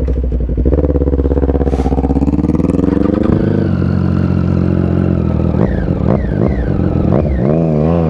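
Motorcycle engine running, its pitch climbing over the first few seconds as it revs up, then holding steady, with several quick rises and falls in pitch near the end.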